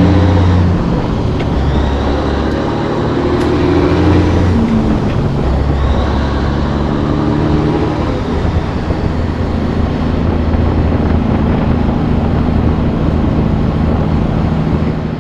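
Heavy semi truck's diesel engine heard from the cab, pulling a loaded trailer; the engine note climbs and drops several times as it works up through the gears.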